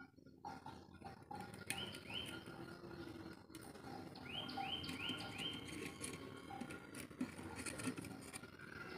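A bird chirping: short rising chirps, a few singly and then four in quick succession around the middle, over a faint background with scattered light clicks.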